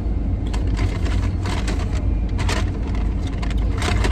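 Car engine idling, heard from inside the cabin as a steady low rumble. Several brief rustling noises come over it.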